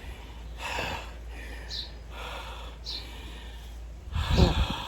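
A man breathing hard, with slow, noisy breaths about a second apart, winded after heavy physical work. A louder, heavier breath comes near the end.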